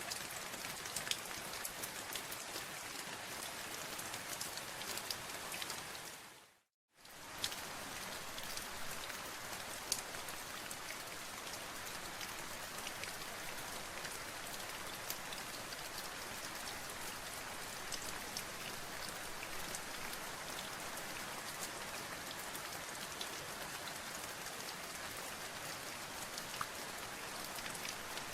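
Steady rain falling, with many separate drop hits standing out sharply. About six and a half seconds in it fades out to silence for under a second, then fades back in.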